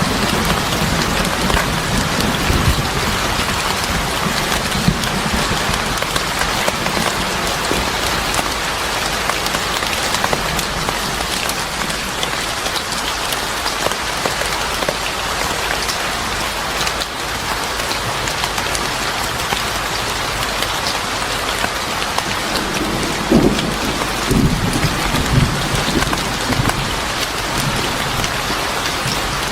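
Steady heavy rain falling and pattering on surfaces, with a few low rumbles near the end.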